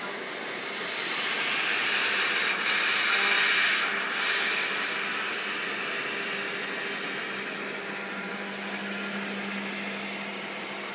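A 5-axis CNC router running with a steady motor hum and a broad hiss. The hiss swells for a few seconds about a second in, then settles to a steady level.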